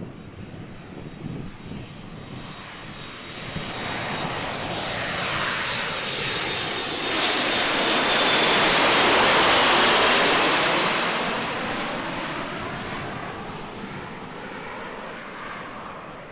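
Avro RJ85 airliner's four turbofan jet engines passing close by: a rushing jet noise with a high whine that swells to its loudest about nine to ten seconds in, then fades. As the aircraft passes, the whine drops in pitch.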